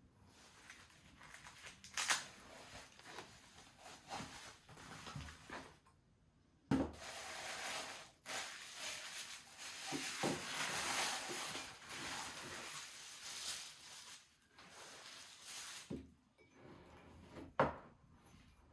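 Crinkling and rustling of packaging being handled, broken by a few sharp clicks and knocks, the loudest a little after the start and near the end.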